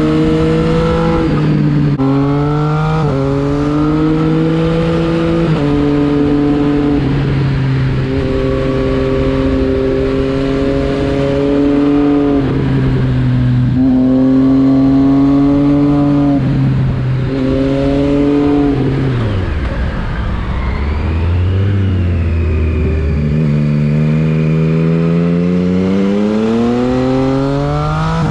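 Triumph Street Triple 675 RX's inline three-cylinder engine accelerating through the gears, its pitch climbing and dropping at each upshift. About two-thirds of the way through it falls back to a low pitch, then pulls away again and climbs steadily near the end.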